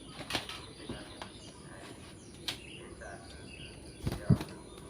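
Faint bird chirps over a low outdoor background, with a few sharp clicks and a dull thump near the end.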